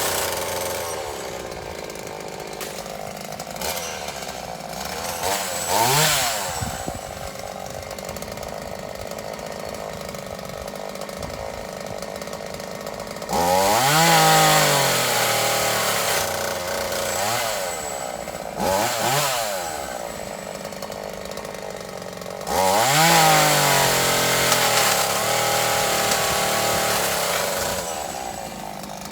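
Chainsaw running at idle and revved up several times, each rev climbing in pitch and then falling back, with the loudest, longest runs about 14 and 23 seconds in.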